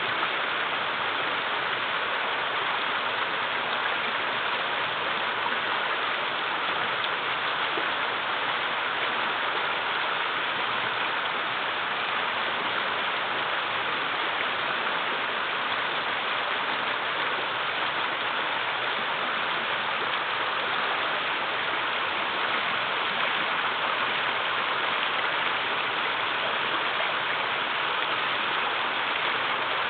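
Shallow river water rushing steadily over small rocky cascades, a continuous even splashing rush with no breaks.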